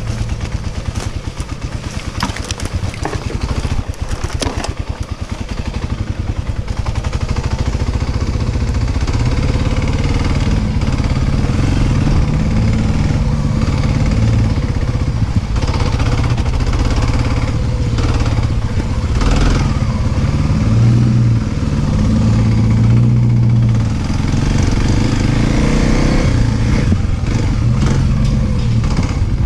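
Dirt bike engine running at low revs with distinct firing pulses for the first few seconds, then pulling harder and louder under load for the rest of the ride.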